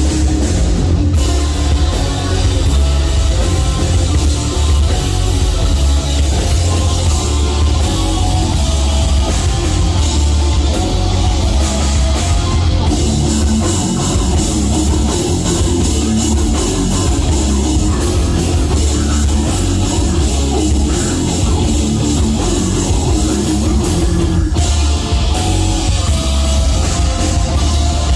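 Heavy metal band playing live and loud, with distorted guitars, bass and a drum kit going continuously.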